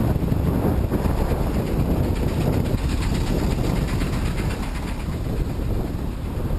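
Wind buffeting the microphone of a cyclist riding into a headwind: a loud, steady rumble, with a faint fast ticking through the middle.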